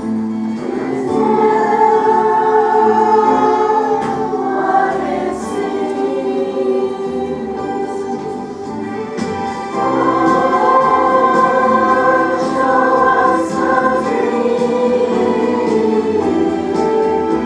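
A choir singing a gospel-style song with instrumental accompaniment.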